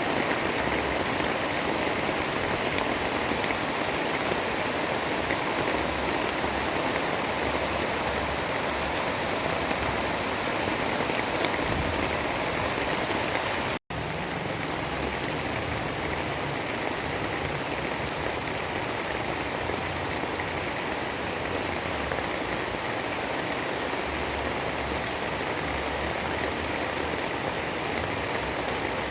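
Steady heavy rain, an unbroken even hiss. The sound cuts out for an instant about halfway through and resumes slightly quieter.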